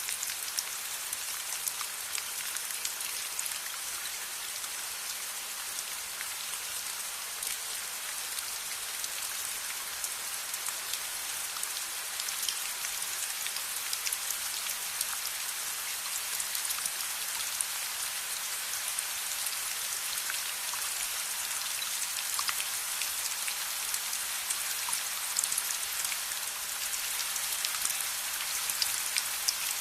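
Steady rain falling, an even hiss dotted with many small sharp ticks.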